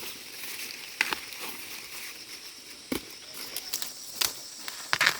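Irregular rustling and handling noise with a few sharp snaps or cracks spaced about a second apart, over a steady high hiss.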